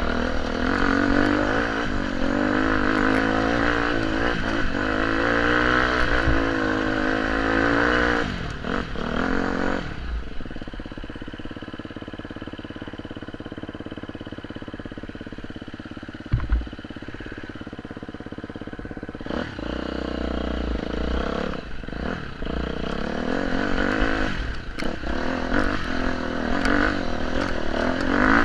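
Off-road motorcycle engine revving and changing pitch under load, then dropping to a lower, steadier note about a third of the way in, with a single knock in the middle, before revving up again near the end.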